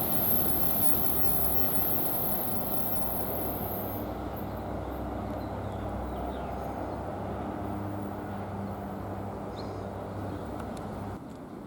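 NJ Transit commuter train running by, a steady low rumble and hum with a high whine that stops about four seconds in; the sound slowly fades and drops off suddenly near the end.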